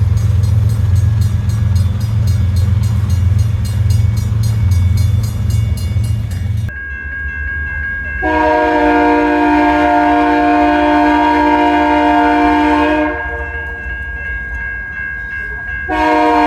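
Diesel freight locomotives rumbling past close by, with a fast, even clicking. About seven seconds in the sound changes abruptly, and a locomotive air horn sounds one long multi-note blast and then a short one near the end.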